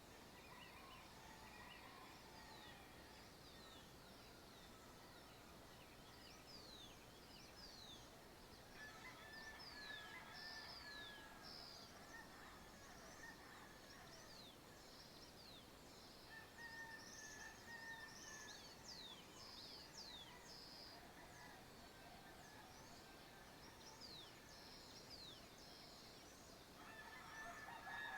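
Faint countryside birdsong at dawn: many short, high, downward-sliding chirps repeating throughout. A lower, longer bird call sounds three times, about a third of the way in, a little past halfway, and near the end.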